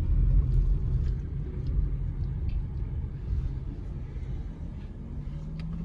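Car engine and road rumble heard from inside the cabin while driving, a steady low rumble that grows quieter over the last few seconds.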